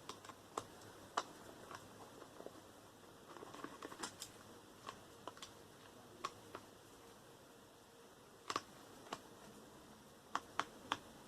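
Scattered light clicks and ticks of a hand screwdriver and small metal parts as screws are taken out of a microwave being stripped for scrap.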